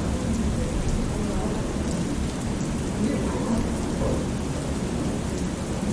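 Thunderstorm ambience: steady rain with a continuous low rumble of thunder.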